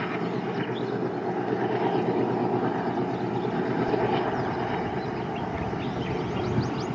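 Distant diesel locomotive hauling a passenger train, a steady engine drone.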